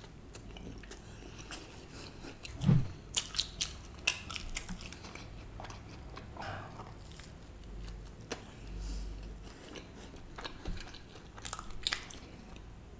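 A man chewing a mouthful of chicken pepperoni stuffed garlic bread close to the microphone. Sharp mouth clicks come in a cluster about three seconds in and again near the end.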